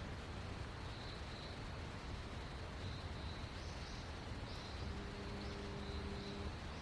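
Outdoor ambience: a steady hiss and low rumble with faint high chirps repeating through it. A low steady hum comes in about five seconds in and stops shortly before the end.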